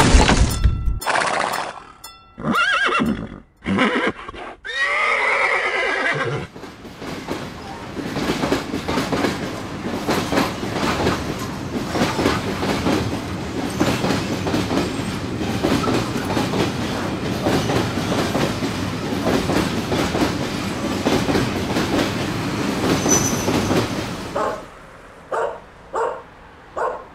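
A horse whinnies about five seconds in. Then a train runs steadily along the rails for about eighteen seconds, a dense, even rattle that stops shortly before the end.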